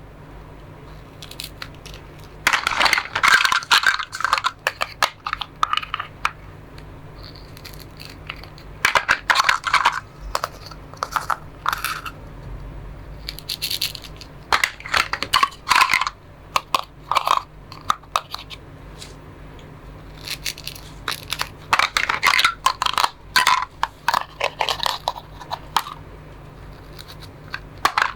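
Plastic toy fruits and vegetables being cut apart and handled: bursts of crisp clicking and crackling, about six of them, each a second or two long, with quieter pauses between.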